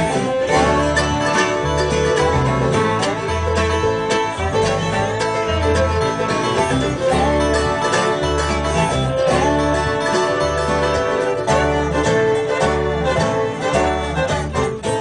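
Bluegrass band playing an instrumental break between sung verses, with plucked strings over a low bass note about once a second.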